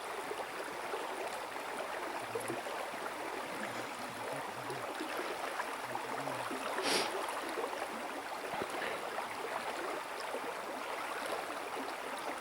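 River water flowing steadily over a riffle, an even rushing. About seven seconds in there is a short, louder burst of noise.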